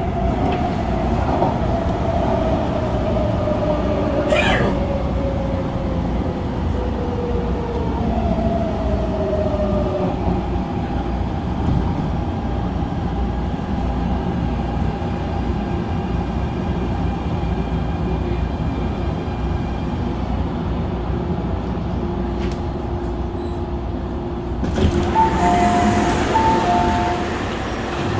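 MTR Tung Chung line CAF electric train running, its traction motor whine falling steadily in pitch over the first several seconds as the train slows, then a steady running noise. Near the end there is a brief, louder two-note tone.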